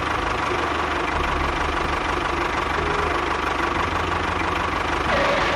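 Tractor engine running steadily with a knocking clatter.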